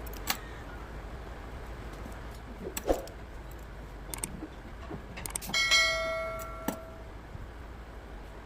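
Small metal parts and tools clicking and knocking as they are handled during hand assembly. About five and a half seconds in, a metal piece is struck or dropped and rings for about a second.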